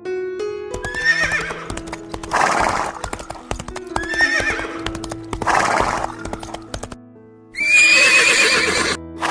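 A horse neighing in a series of five calls about every one and a half seconds, the last one longest near the end, with clip-clopping hoofbeats and background music of held notes underneath.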